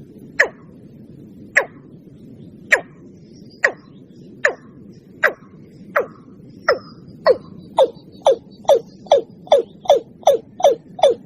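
Watercock calls: a series of short, sharp notes, each falling steeply in pitch. They come about one a second at first, then speed up to two or three a second in the second half.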